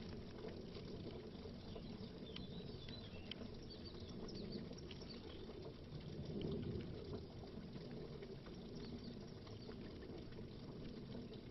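Faint underwater bubbling, a low gurgle with scattered small pops, swelling slightly about six seconds in.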